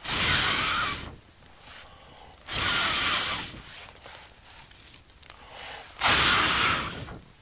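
A person's breath: three long, breathy exhales, each about a second long and about three seconds apart.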